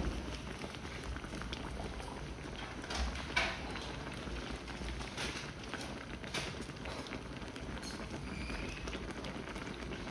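Food bubbling as it cooks, a steady low hiss and bubble, with a few light clicks scattered through.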